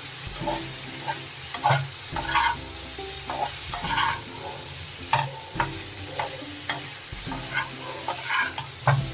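Spatula stirring and scraping through a jackfruit, potato and prawn curry sizzling in oil in a pan, with irregular knocks against the pan over a steady sizzle, as the spice paste is fried down (koshano).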